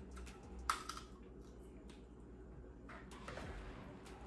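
Quiet eating and handling sounds: a few small clicks and taps of seafood shells and utensils, with one sharper click about two-thirds of a second in.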